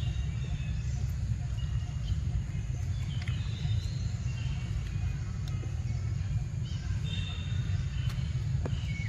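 Birds chirping and calling in short, quick notes over a steady low rumble.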